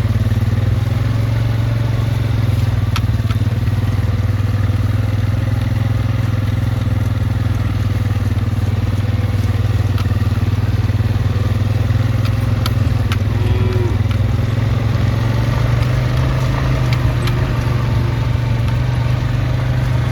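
A small vehicle's engine running at a steady low speed, an even drone that holds throughout, with a few faint ticks over it.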